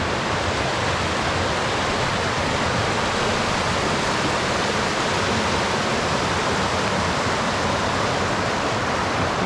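Steady rush of a mountain river's water pouring over rocks and falls, a constant even hiss.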